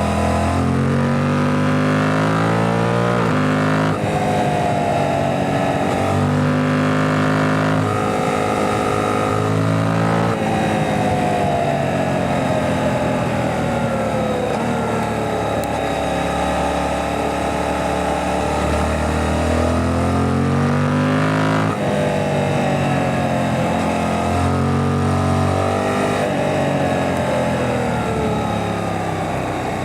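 Suzuki GSX-8S parallel-twin engine heard from onboard while riding, its revs stepping through gear changes in the first ten seconds, then rising and falling smoothly through corners, with another abrupt change a little past the midpoint.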